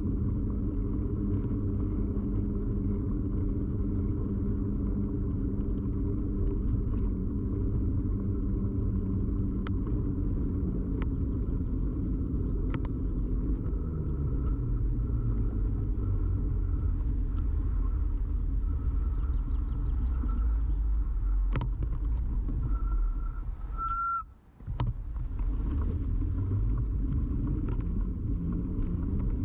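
Steady low rumble and vibration of a bicycle ride, picked up through a camera fixed to the bike, with scattered small rattling clicks. The drone drops in pitch as the bike slows. About three-quarters through, a short high squeal comes just before the sound briefly drops away, and then the rumble picks up again.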